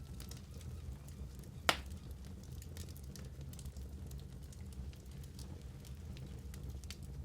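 Wood fire crackling in a fireplace: a steady low rumble under frequent small snaps, with one sharp, louder pop nearly two seconds in.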